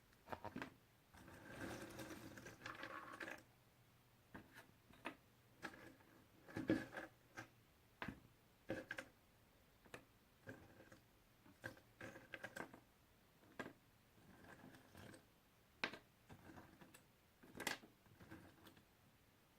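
Jigsaw puzzle pieces being handled: soft, scattered clicks and taps as pieces are picked up and set down, with a longer rustle about two seconds in.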